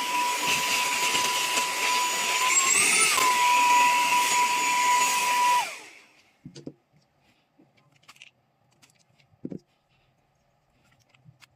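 Small cordless handheld vacuum cleaner running with a steady high whine and airy hiss, its pitch briefly swelling up about three seconds in, then switched off and winding down around six seconds in. After that only a few faint handling clicks.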